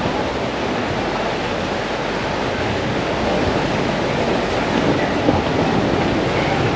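Steady rushing noise of surf and wind, with no break, and a single small tick about five seconds in.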